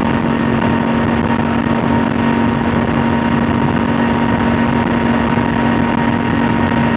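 Triumph Tiger 900 GT's inline three-cylinder engine running steadily through an Arrow aftermarket silencer, holding one even pitch with no revving.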